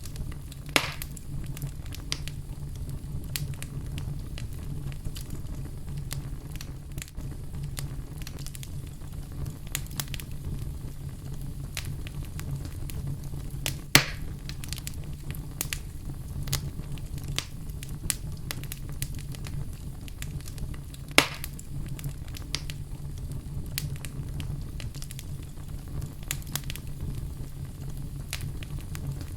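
Wood fire burning in a fireplace: a steady low rumble with frequent small crackles and three louder pops, about a second in, near the middle and about two-thirds through.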